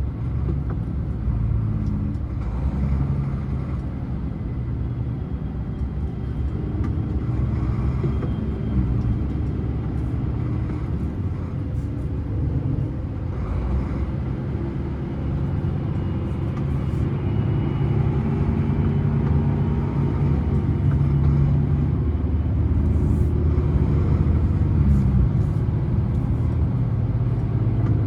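Scania truck's diesel engine running on a long downhill, a steady low rumble whose pitch shifts slightly up and down, getting a little louder in the last third.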